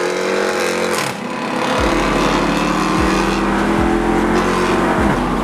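Muscle-car V8 engines at full throttle in a street race launch, the engine note climbing steadily under hard acceleration, with a deep rumble joining about two seconds in. The pitch drops near the end, like an upshift.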